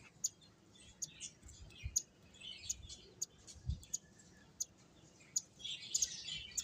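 Small pet finches chirping: many short, high-pitched cheeps and ticks in quick irregular succession, with two soft low thumps partway through.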